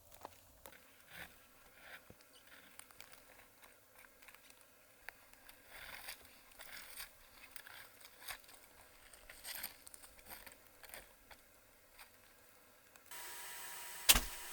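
Light rustling, crinkling and small clicks of things being handled in a small room. Near the end a steady hum starts suddenly, and one loud sharp knock follows about a second later.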